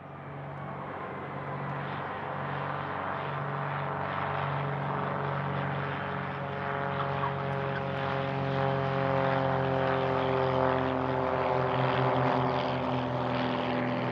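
Lancair Legacy's single piston engine and propeller running steadily, growing louder over the first few seconds and then holding.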